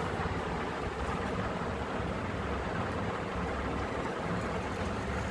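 Atomberg Efficio BLDC ceiling fan running in boost mode, its top speed: a steady rush of air from the spinning blades.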